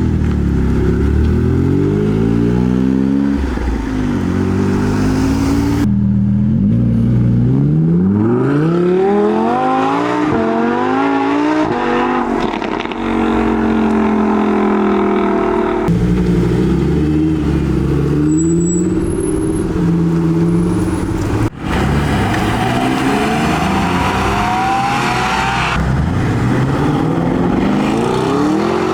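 Several high-performance car engines, one after another, revving and accelerating hard, each pitch climbing sharply and dropping back as the car pulls away through the gears.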